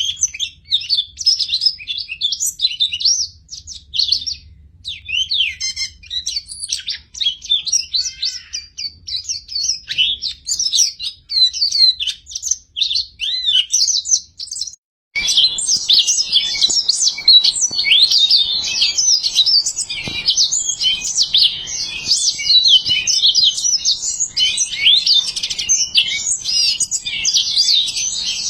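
Many small birds chirping and twittering together in quick, overlapping high notes. About halfway through it breaks off for a moment, then resumes denser and louder.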